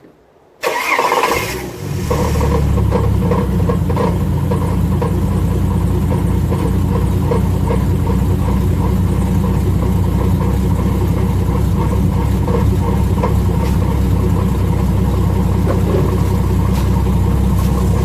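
Turbocharged Ford Barra 4.0-litre straight-six cranked on the starter and catching within about two seconds, then idling with a gnarly metallic rattle and knock. The noise is a broken flex plate, not a rod knock.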